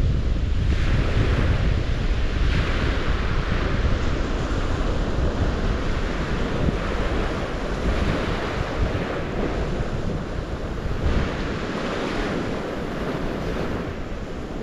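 Waves of the St. Lawrence washing onto the shore in surges every second or two, with wind buffeting the microphone as a low rumble that eases off in the second half.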